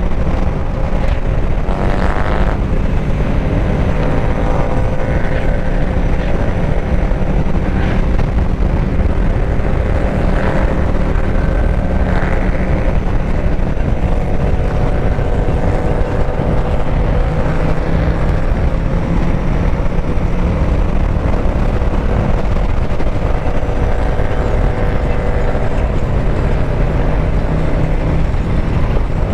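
Harley-Davidson Street Bob's V-twin motorcycle engine running at riding speed under a strong rush of wind on the microphone. The engine note climbs about two seconds in and again near the end, as the throttle opens.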